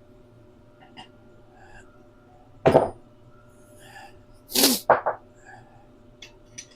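A man with a head cold sneezing: a sharp burst about three seconds in, then a loud hissing sneeze followed by two quick short bursts around five seconds.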